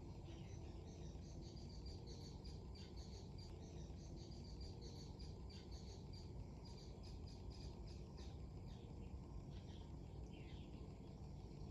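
Small birds chirping in quick, dense runs of short high notes, over a steady low rumble of wind.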